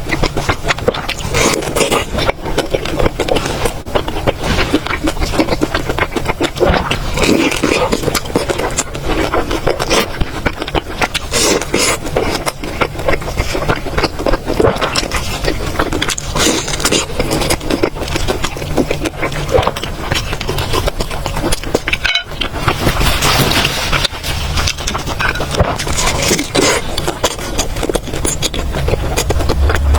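Close-miked eating sounds: continuous chewing with many quick wet clicks and crackles.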